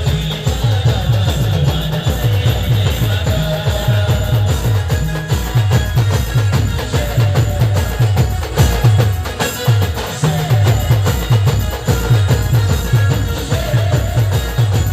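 Timli folk dance music played by a band: fast, dense drumming with heavy bass drum strokes under a held melodic line.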